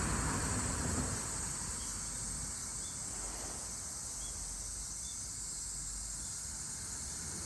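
Steady high-pitched insect chorus, with a few faint short chirps scattered through it.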